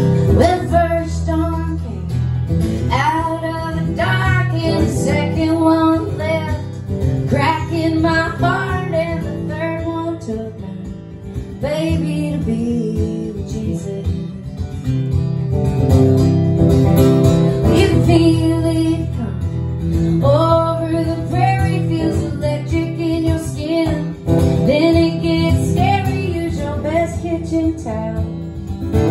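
A woman singing a song to acoustic guitar accompaniment, performed live.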